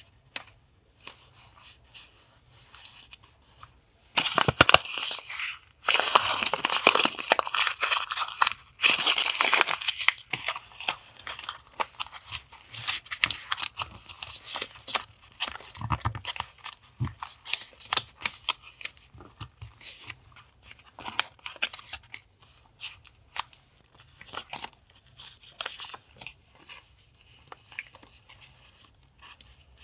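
Paper being handled close to the microphone: tearing and crinkling, with a loud stretch of rustling from about four to ten seconds in, then lighter crackles and clicks.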